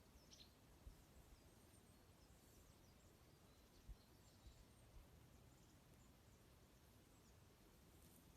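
Faint, scattered high chirps of small birds over near silence, with a couple of soft low thumps.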